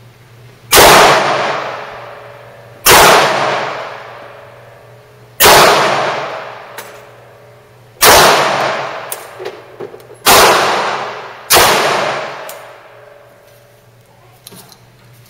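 Six pistol shots from a Glock, fired one at a time at uneven intervals of about one to three seconds. Each shot rings out in a long echoing tail. Small clicks and ticks come between the later shots.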